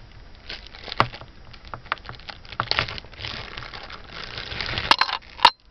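Handling noise from unpacking costume jewelry: plastic bags crinkling and rustling, with a string of clicks and clacks from the pieces. There is a sharper click about a second in and two more near the end.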